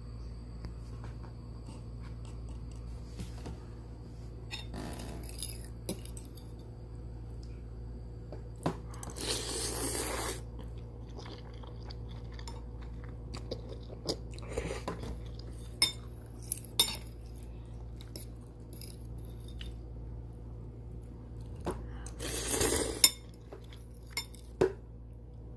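Ramen being eaten: utensils clicking and scraping against the dish, with chewing, over a steady low hum. Two louder noisy stretches, each about a second long, come about nine and twenty-two seconds in.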